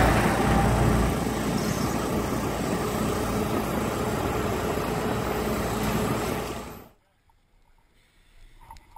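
Stingray in-situ net cleaner running on its automatic cycle: steady machine noise with a faint low hum, fading out about seven seconds in.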